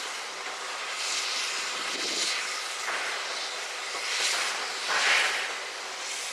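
LNER A1 Pacific steam locomotive 60163 Tornado working slowly, its exhaust and steam hissing in uneven surges about once a second.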